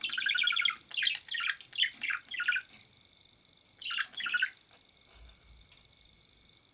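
Green pet parrot squawking: a quick run of harsh calls, each dropping in pitch, for the first couple of seconds, then two more about four seconds in.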